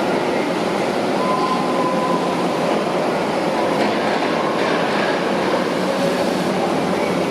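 Heavy construction machinery running steadily: a loud, continuous mechanical din with faint squealing tones over it.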